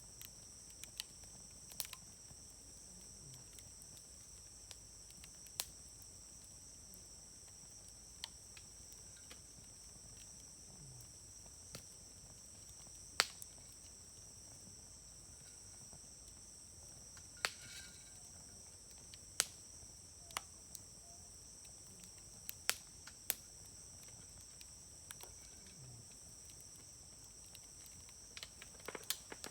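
Wood campfire burning with sharp, irregular pops every few seconds, the loudest about 13 seconds in, over a steady high-pitched chirring of insects.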